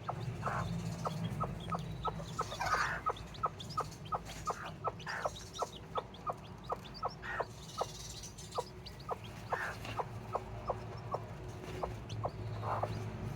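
Broody Serama bantam hen clucking softly and steadily, about three short clucks a second, the low brooding cluck of a hen sitting on her chicks.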